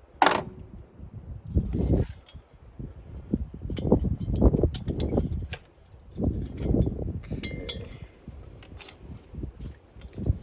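Metal parts and hand tools clinking and knocking irregularly while a truck's heater blower housing is being taken apart, with low handling rumble between the clinks.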